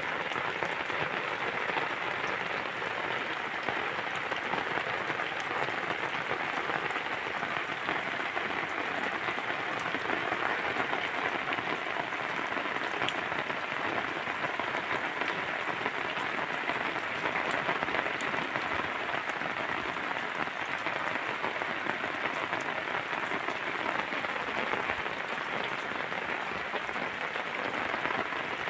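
Steady rain falling, an even hiss that holds at one level without letup.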